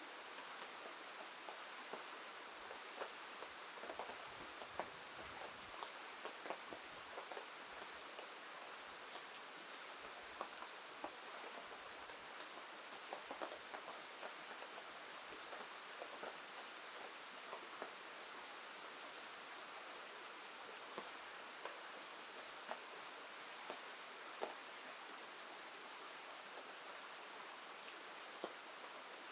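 Steady rain falling, with many scattered sharp ticks of individual drops striking close by.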